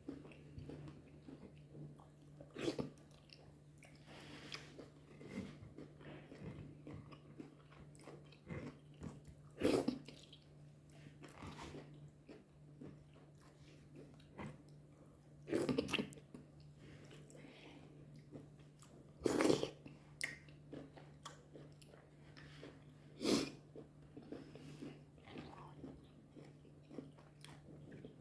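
A person eating fufu with goat meat pepper soup close to the microphone: chewing and small mouth clicks, with about seven louder smacks spread through.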